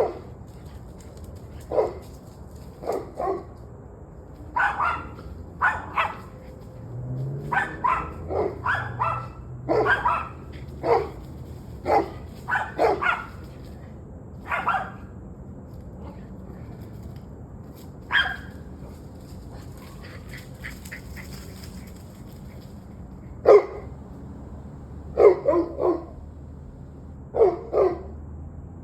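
A dog barking on and off, in short bursts of one to three barks with pauses between, and a longer lull in the middle. The barking has gone on for about an hour and a half.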